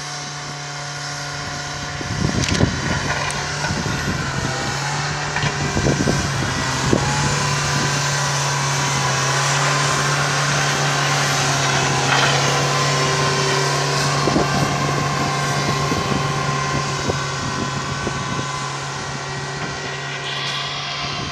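A train passing: a steady low engine drone with wheels knocking over rail joints and a metallic ringing. It grows louder toward the middle and eases off near the end.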